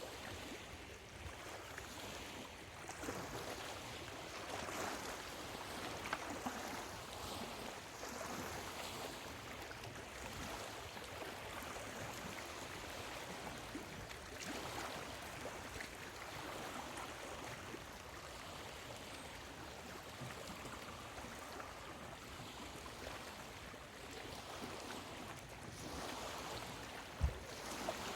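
Small waves lapping on a lakeshore, washing in and swelling every few seconds. There is a brief low thump about a second before the end.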